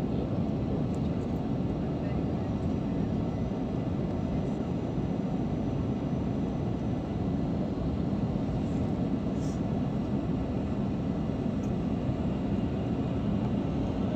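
Steady low drone of an Airbus airliner's engines and airflow, heard from inside the passenger cabin.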